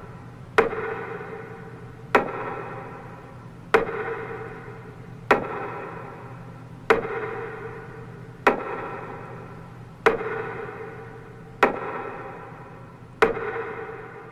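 Minute-of-silence metronome beats: a sharp tick about every second and a half, nine in all, each leaving a ringing tone that fades before the next.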